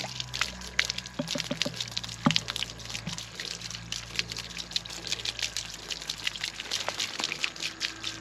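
Water being poured over a small dog, splashing and dripping in a dense, uneven patter.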